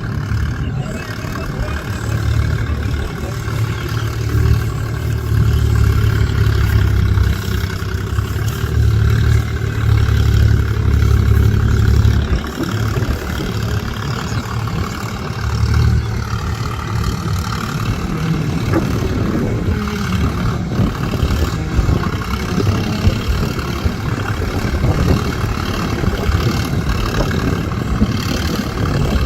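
Sonalika DI 47 4WD tractor's diesel engine running loud and steady. It works harder for several seconds, eases off about twelve seconds in, then runs on more evenly.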